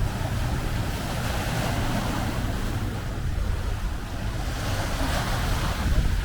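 Sea surf washing against the shore under wind buffeting the microphone, which adds a steady low rumble.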